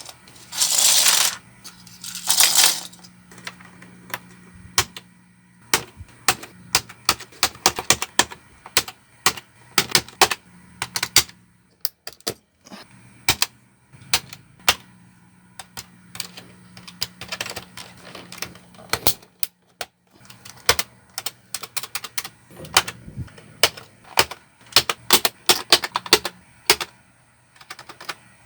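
Plastic keycaps being pressed back onto a Xenics K3 keyboard: a long run of sharp, irregular clicks, several a second. Two short bursts of rushing air come in the first few seconds.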